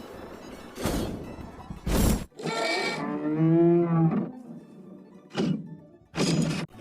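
Cartoon sound effects: sharp thumps about a second in, at two seconds, and twice near the end, with a drawn-out pitched sound in between that wavers and falls at its end.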